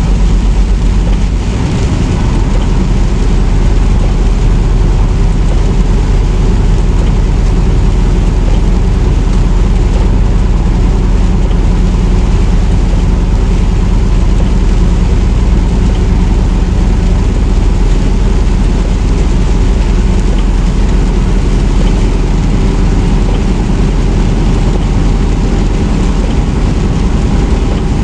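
Semi truck's diesel engine and road noise droning steadily from inside the cab while driving.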